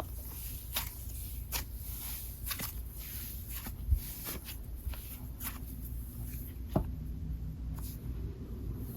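Hands playing with a dense, slightly wet cloud slime: scattered soft sticky clicks and crackles as it is stretched and pressed, with two louder pops about four and seven seconds in.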